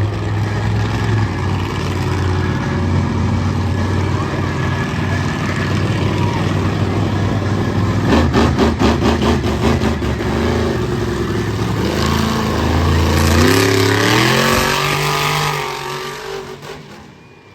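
Monster truck engines running hard, with a rapid pulsing stretch midway and the revs climbing several times near the end before the sound fades away.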